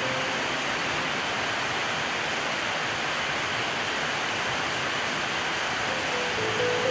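Steady rain, an even hiss with no breaks. Soft music notes come back in near the end.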